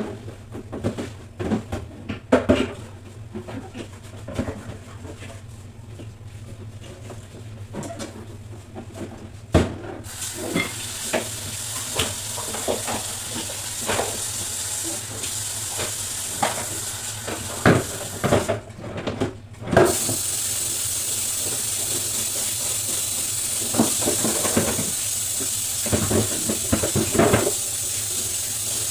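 Knocks and clatter of containers and fridge parts being handled while cleaning, joined about a third of the way in by a steady hiss of running water, which breaks off briefly about two-thirds of the way in and then resumes with more knocks over it.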